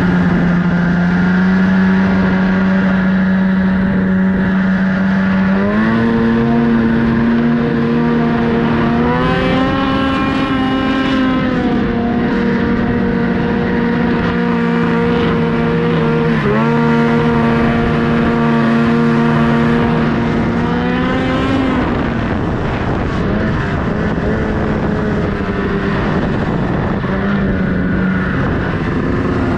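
Snowmobile engine running under way, its pitch stepping up with the throttle twice in the first ten seconds, dipping briefly mid-way, then dropping lower and wavering for the last stretch.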